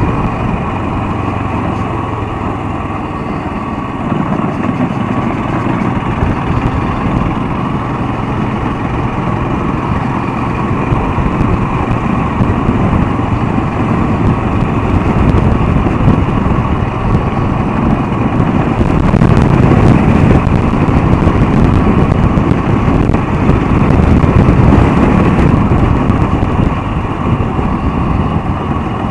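Royal Enfield Himalayan single-cylinder motorcycle running on the move, a steady engine and riding noise that grows louder about two-thirds of the way through.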